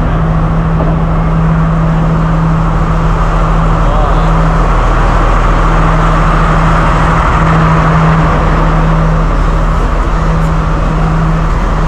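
Diesel-hauled passenger train pulling into the station: a steady engine drone with a rush of wheel and rail noise that swells about halfway through.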